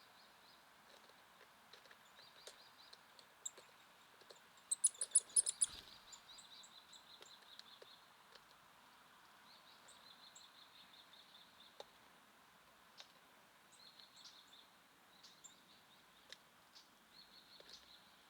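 Small songbirds calling, a short rapid trill repeated every few seconds, with a louder run of sharp high notes about five seconds in. A faint steady background hiss runs underneath.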